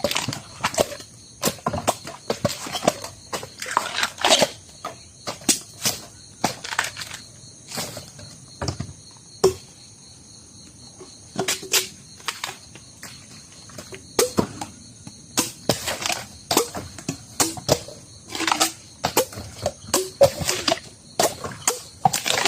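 Irregular sharp chops and cracks from cutting Mazhu bamboo shoots, several a second at times, with a lull of about two seconds near the middle. A steady high insect drone carries on underneath.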